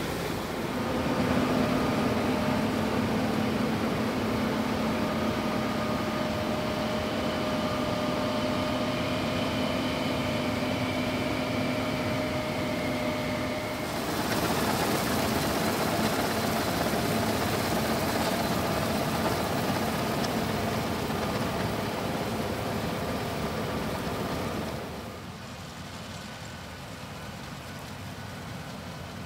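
Combine harvester running at work: a steady heavy engine and machinery drone with steady tones over it. It changes abruptly twice as the shots change, and is quieter for the last few seconds.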